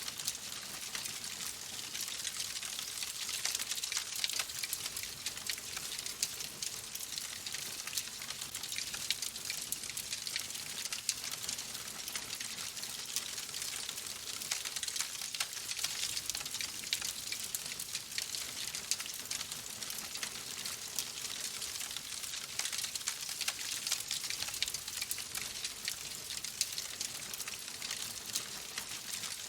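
Wood fire in a fireplace crackling steadily: a dense run of small pops and snaps over a soft hiss.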